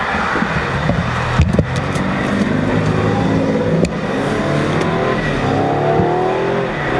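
Car engine accelerating, its pitch climbing steadily through the second half, with a couple of short clicks earlier on.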